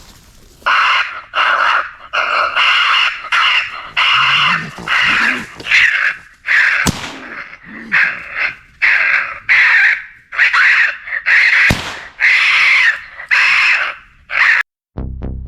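Raccoon squaller call sounding a rapid string of about twenty harsh, raspy squalls imitating fighting raccoons, as used to call raccoons in. The squalls stop abruptly near the end.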